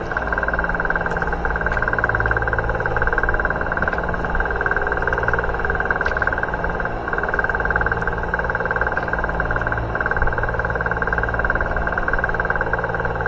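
A motor running steadily, with a fast even pulse, a steady whine and a low hum that do not change.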